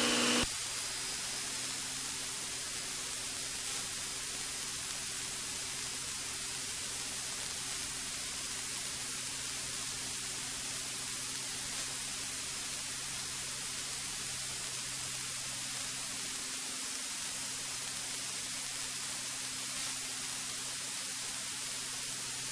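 Steady hiss of a cockpit intercom or headset audio feed, with a faint, even engine drone underneath from a single-engine light aircraft at takeoff power.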